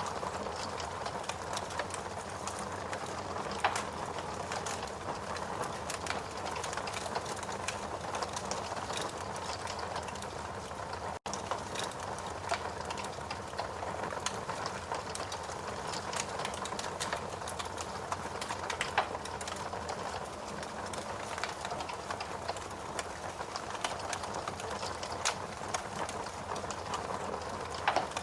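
Steady rain mixed with a crackling wood fire, sharp pops and snaps scattered over an even hiss. The sound cuts out for an instant about eleven seconds in.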